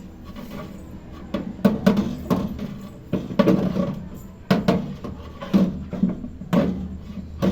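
Repeated knocks and clatter, one or two a second, as the microwave oven's glass turntable tray is handled and set into place, with a steady low hum underneath.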